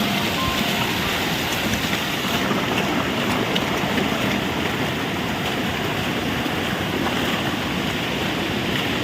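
Steady rush of water pouring over a waterfall, an even noise that does not change.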